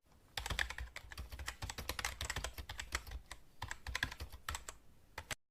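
Computer keyboard typing: rapid runs of key clicks with a brief lull about three and a half seconds in.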